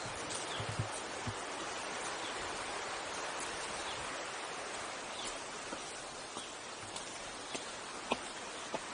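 Steady rush of a river with a fast-moving current, with a few light clicks scattered through it.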